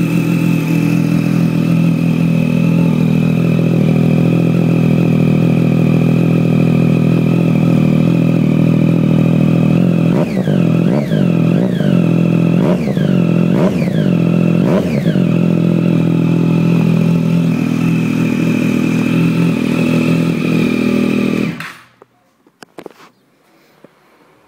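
2013 Triumph Street Triple's 675 cc inline-three running loud through an SC Project Conic slip-on exhaust in a garage. It idles steadily, then about ten seconds in the throttle is blipped five times in quick succession, each rev rising and falling. It settles back to idle and cuts off suddenly about 21 seconds in, leaving a few faint clicks.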